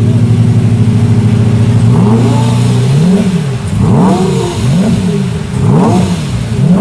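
Lamborghini Murciélago V12 through a Milltek exhaust, idling steadily for about two seconds, then revved in a run of quick throttle blips, roughly one a second, each climbing and dropping back in pitch. Loud.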